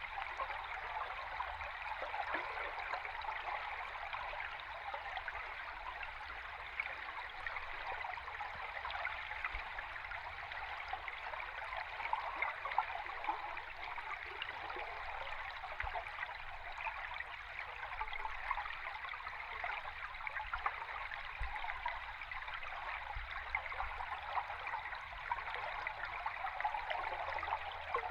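A river stream recorded underwater: a steady rushing wash of moving water, thick with fine crackling ticks, over a faint low rumble.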